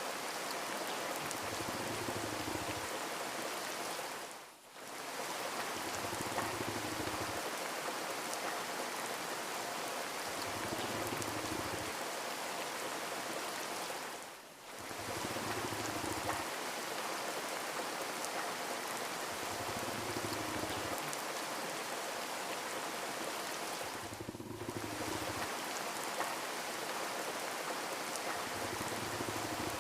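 Steady rain falling, an even hiss of drops that dips sharply for a moment three times, about ten seconds apart.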